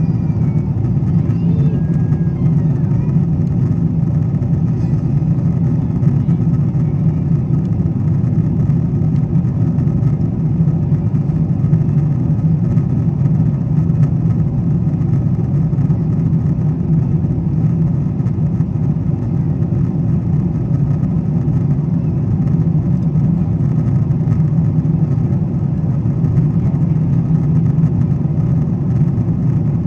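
Steady airliner cabin noise inside a Boeing 777-200ER in climb: a constant low roar of the jet engines and airflow that does not change.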